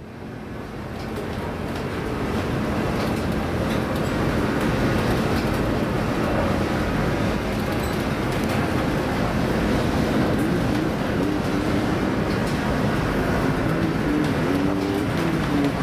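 Steady loud rumbling noise aboard a ship in heavy seas, fading in over the first few seconds, with a wavering whine coming in during the second half.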